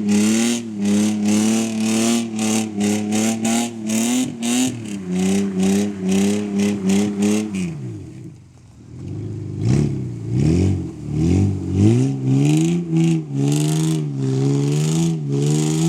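Toyota T100 pickup's engine running under load, its note holding steady and shifting in pitch, with rapid rushing bursts of noise over it. About halfway it drops away briefly, then revs up and down several times before settling again.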